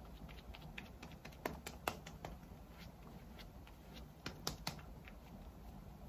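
Fingertips patting BB cream onto the face: faint, sticky taps, with a quick cluster about a second and a half in and another about four seconds in.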